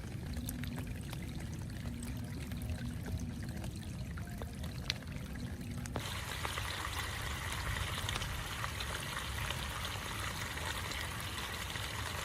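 Heavy rain with water pouring and trickling, and scattered small drop ticks. About halfway a brighter hiss starts suddenly and cuts off just before the end.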